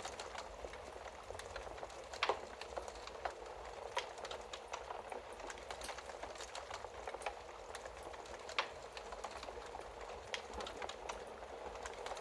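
Wood fire crackling: a steady soft hiss of burning with frequent small snaps and a few louder pops, the loudest about two seconds in and another past the middle.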